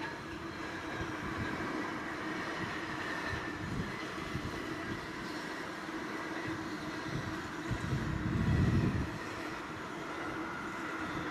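Wagons of a container freight train rolling past: a steady rumble of steel wheels on rail with a faint hum. About eight seconds in there is a louder low rumble lasting about a second.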